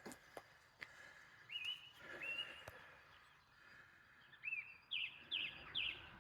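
Small wild bird chirping faintly: a few short rising-and-falling notes, then three quick downward-sweeping notes near the end, over faint outdoor background noise.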